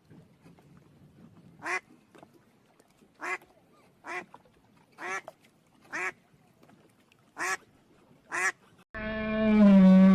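A duck quacking, seven short single quacks at irregular intervals of about a second. Near the end a long, low, loud call from a larger animal cuts in and is the loudest sound.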